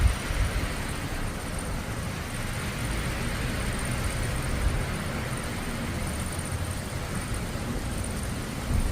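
Thunderstorm ambience: a steady low rumble under a hiss, with a thin, unbroken high tone above it and no sharp thunderclap.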